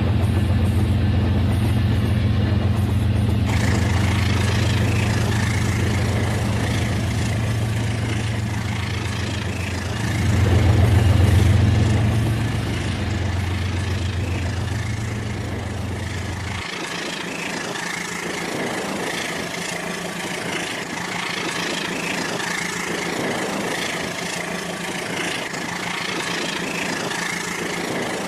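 Rail King toy train running: a low engine-like hum swells briefly in the middle and stops suddenly about two-thirds of the way through. Under it, and on to the end, is a steady higher whirring.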